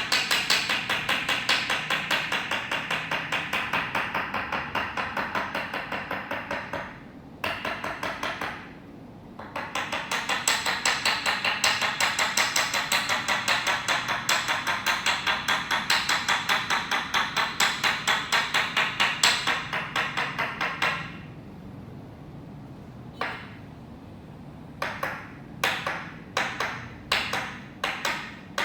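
Toksen massage: a wooden mallet striking a wooden peg held against the body in a rapid, even rhythm of taps. The tapping pauses briefly about seven seconds in, stops about 21 seconds in, then comes back as slower, separate taps near the end.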